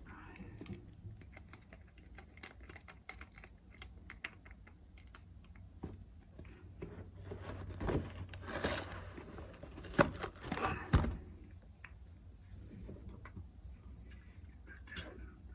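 Small clicks and taps of hand tools and metal fittings as a combi boiler valve is worked off, with two sharper knocks about ten and eleven seconds in.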